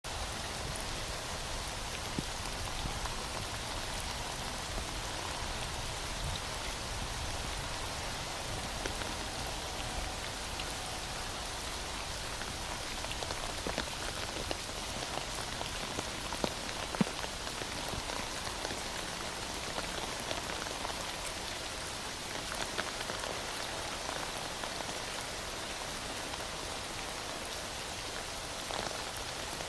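Heavy rain falling steadily, an even hiss with now and then a single louder drop striking a surface.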